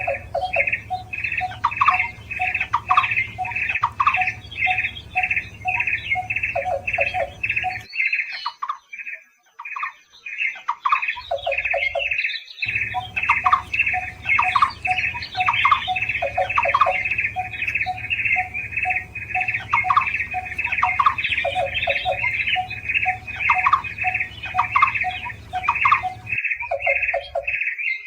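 Barbets calling: a fast, even series of repeated notes, about two to three a second, with a lower run of short notes alongside and a steady low hum underneath. The calling breaks off about eight seconds in and starts again about four seconds later.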